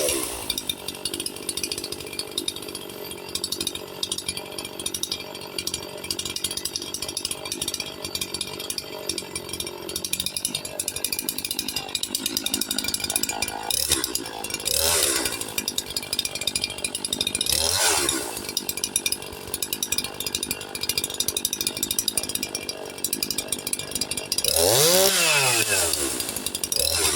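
Echo CS-4910 two-stroke chainsaw with a stage 1 modified muffler, idling steadily, with short throttle blips around the middle and a bigger rev up and back down near the end. The opened-up muffler makes it run noticeably louder.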